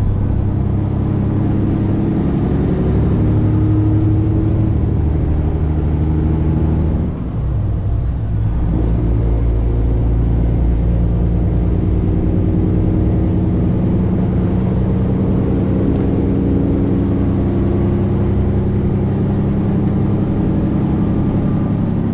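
Semi truck's Detroit Diesel 12.7 engine pulling under load: the engine note climbs, breaks off with a short dip about seven seconds in as a gear is changed, then climbs again and holds steady at cruising speed.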